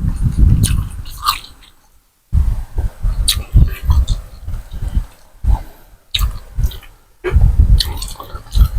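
Close-up eating sounds of a person chewing and slurping Thai boat noodles, in uneven bursts with a few sharp clicks, stopping briefly twice.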